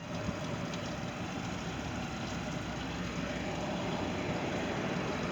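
Monterey boat engine running at a steady idle, now starting and running after a no-start fault was repaired.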